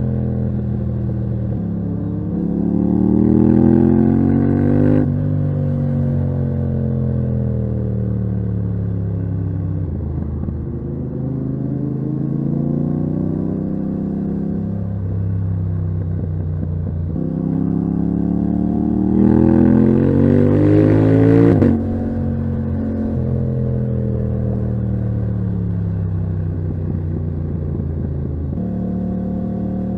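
Yamaha MT-07 parallel-twin engine through a titanium Akrapovic exhaust, ridden hard. It accelerates twice with a rising note, and each pull is cut off sharply as the throttle closes. The revs then fall away, with a few sudden steps in pitch between.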